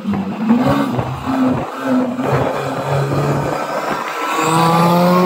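Turbocharged 1994 Honda Civic hatchback's engine driving past, its pitch going up and down, then accelerating with a steadily rising pitch over the last second or so.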